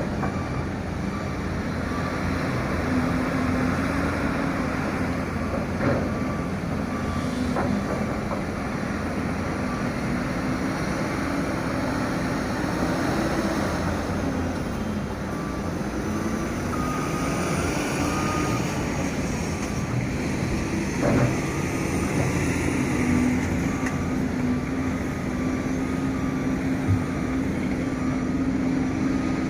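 Heavy diesel machinery at a coal-loading site, the engine running steadily with its pitch rising and falling as it works. A repeated beeping alarm sounds over it, with a few sharp knocks.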